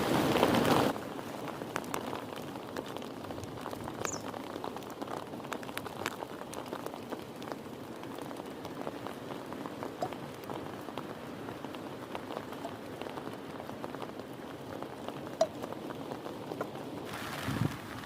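Rain falling, a steady patter of many small drops. It is louder and denser for about the first second, drops suddenly to a lighter patter, and grows louder again near the end.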